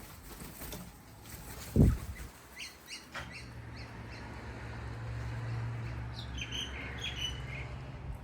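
Wild cockatoos giving short calls and chirps in a couple of clusters, with a single low thump about two seconds in and a steady low hum from about three seconds in.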